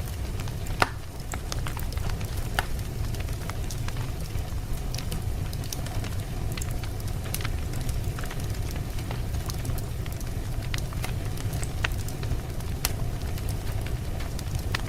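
Wood fire burning with a steady low rumble and irregular sharp crackles and pops throughout, the loudest pop about a second in.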